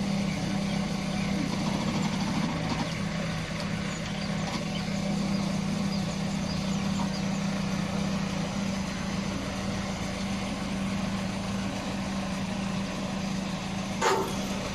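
An engine running steadily at an even pitch, with a single sharp knock near the end.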